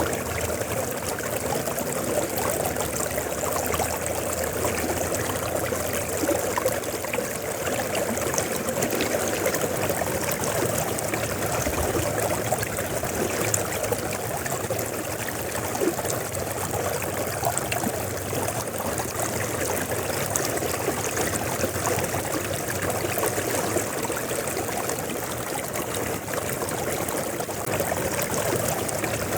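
A river flowing: steady running water, even throughout.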